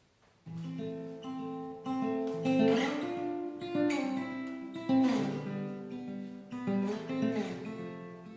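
Solo acoustic guitar intro: picked notes and strummed chords, starting about half a second in.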